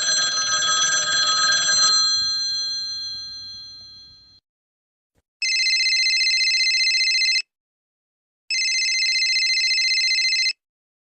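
A ringing sound of several steady tones that fades out over about four seconds, then a telephone ringing twice, each ring about two seconds long with a second's pause between.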